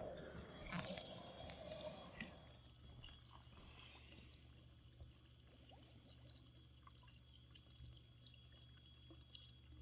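Near silence: room tone with a faint steady low hum, and a soft rushing noise that fades out about two seconds in.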